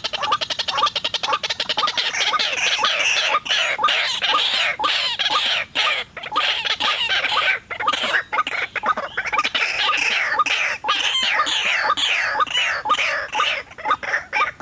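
White-breasted waterhens (ruak-ruak) calling: a loud, continuous chorus of rapidly repeated harsh notes.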